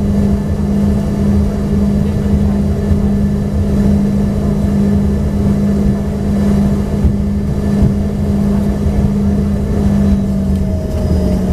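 Steady machinery drone inside the cabin of an Embraer ERJ-145XR regional jet: a strong constant hum over low rumble, with a faint tone sliding slightly downward near the end.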